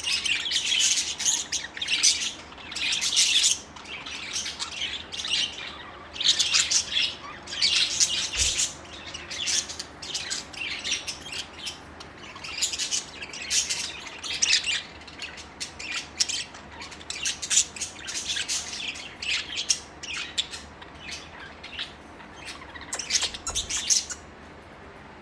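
Several budgerigars chattering and warbling together in a cage, a continuous run of quick high-pitched chirps and squawks.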